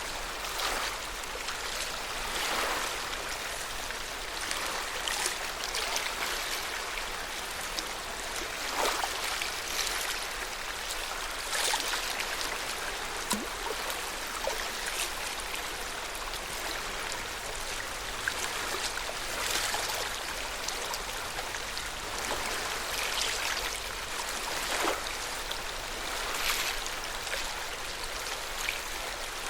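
Lake water lapping at the shore: a steady wash with small irregular splashes every second or two.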